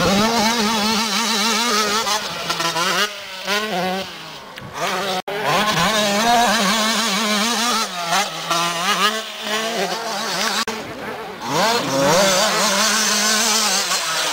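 Motocross motorcycle engines running hard and revving, their pitch wavering and rising and falling with the throttle and gear changes as the bikes race. There is a brief dropout about five seconds in, and a sharp rise in pitch near the end.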